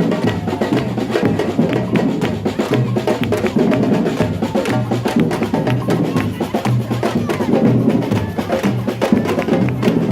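Batucada percussion group playing: deep drums beat a steady repeating pulse under dense, sharp strikes.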